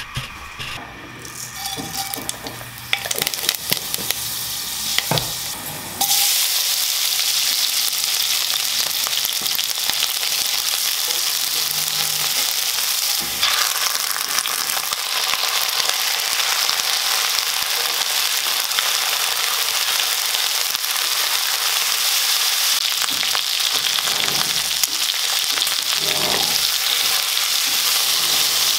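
Onions and chicken gizzards frying in mustard oil in a wok, stirred with a spatula. A few knocks and quieter sounds at first, then a loud steady sizzle starts suddenly about six seconds in, as food goes into the hot oil, and keeps going.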